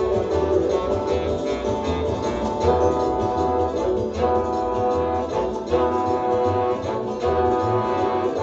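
Instrumental music: guitar playing over held notes and a pulsing bass line, with no singing.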